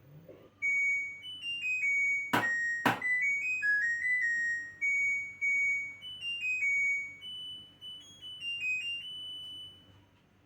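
An LG washing machine's electronic beeper playing its end-of-cycle melody, a tune of single high notes stepping up and down, which signals that the wash program has finished. Two sharp clicks come about two and a half seconds in, close together.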